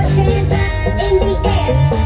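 Loud music with a heavy, deep bass line and a melody over it, played through a large street sound system (sound horeg).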